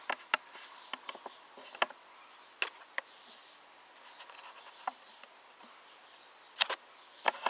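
Scattered light clicks and taps from handling a 1:18 scale diecast model car, about ten in all at irregular intervals, with a pair close together near the end, over a faint steady hiss.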